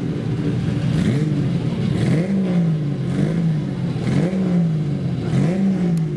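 Classic race car engine revved in repeated throttle blips, about once a second: each time the pitch jumps up quickly and then sags back down.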